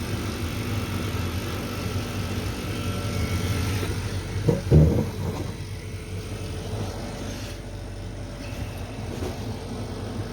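Marikholodmash refrigeration monoblock running, a steady low mechanical hum of compressor and fans. A brief low knock comes about four and a half seconds in.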